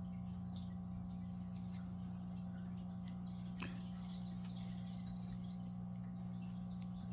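Faint scattered ticks of a crochet hook and yarn being worked in single crochet along a seam, with one sharper click about three and a half seconds in, over a steady low hum.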